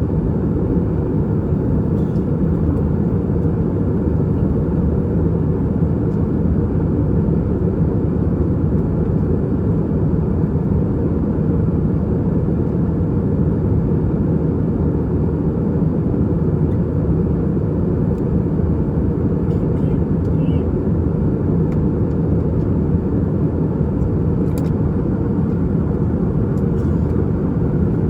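Steady cabin noise of an Airbus A320-232 airliner in its climb: a constant low drone from its IAE V2500 turbofan engines and the airflow over the fuselage, heard from a window seat in the rear cabin. Faint ticks sound now and then above it.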